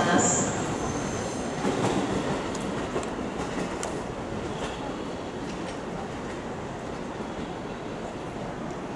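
JR West Thunderbird limited express electric train rolling along the platform, wheels on the rail, with a few faint clicks, the running noise fading steadily as it slows.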